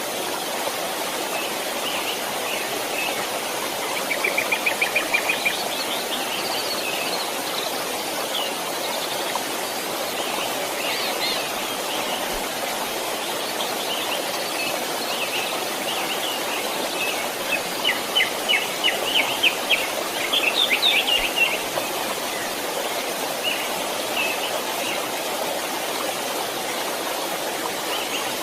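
A stream running steadily, with songbirds chirping over it: a fast trill about four seconds in and a run of rapid chirps in the second half.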